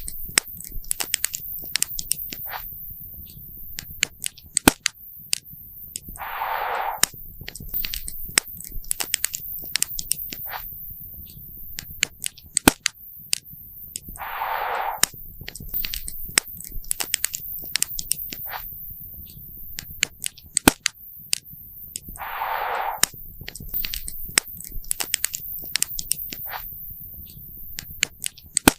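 Campfire crackling and popping, with sharp snaps over a low rumble of burning wood. A short soft hissing rush comes about every eight seconds, four times.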